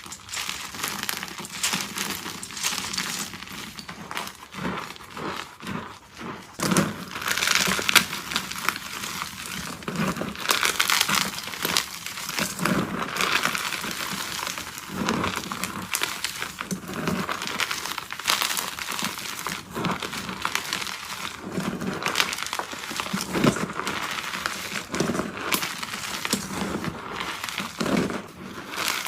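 Soft, crumbly chalk being crunched up close in a dense run of crisp crackles, with a dull thud every second or two as each piece gives way.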